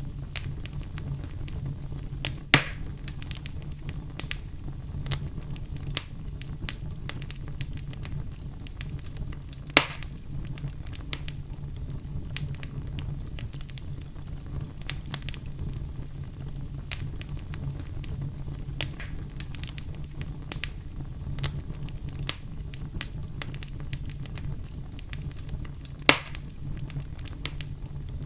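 Wood fire burning in a fireplace: a steady low rumble of flame under frequent small crackles, with three louder sharp pops.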